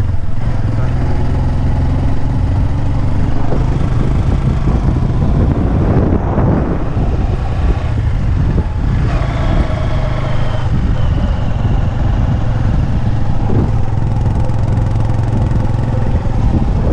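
Motorcycle engine running steadily under a heavy low rumble, with some rises in pitch in the middle.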